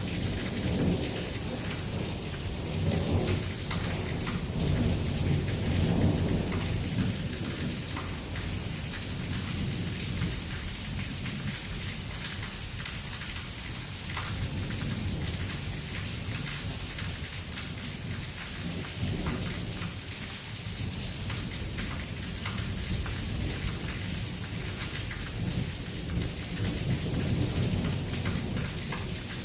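Heavy rain falling steadily, with low rolling thunder rumbling through the first several seconds and again near the end.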